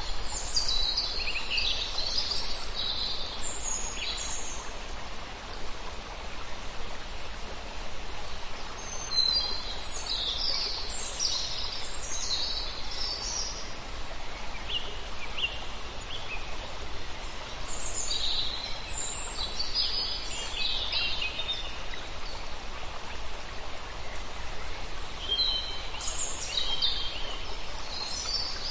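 Small birds singing in clusters of quick, high twittering phrases, four bursts spaced several seconds apart, over a steady outdoor hiss.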